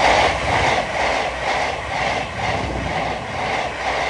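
Thameslink Class 700 electric multiple unit passing through the station at speed, its wheels beating out a steady rhythmic clatter of about two to three beats a second over a continuous rumble.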